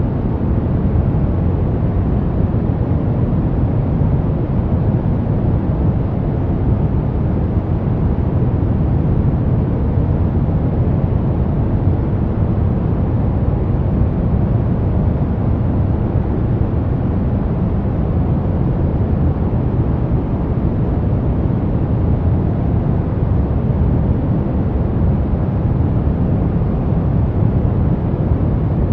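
Brown noise: a steady, unchanging low rumbling hiss, strongest in the bass and thinning toward the treble, with no rhythm or events.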